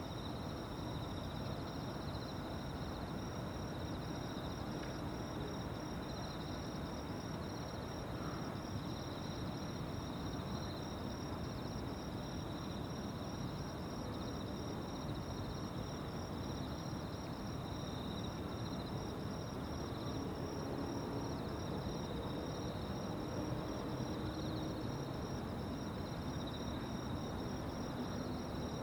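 A chorus of insects chirping, a steady high-pitched trill of fast pulses, over an even low background rumble.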